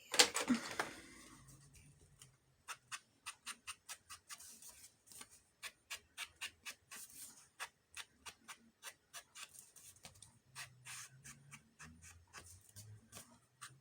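Ink pad dabbed again and again onto the edges of a paper tag: quick light taps, about four a second, starting a few seconds in, after a single knock at the start.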